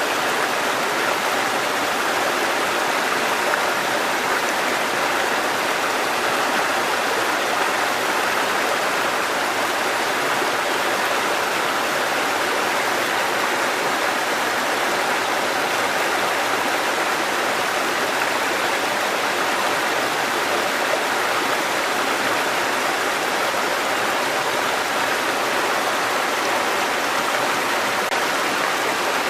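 Mountain stream water cascading over rocks: a steady, even rushing.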